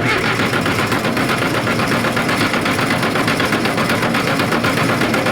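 Starter cranking the International 270A backhoe's four-cylinder diesel engine in a steady, even rhythm without it catching, while the injector lines are bled of air after injection-pump work.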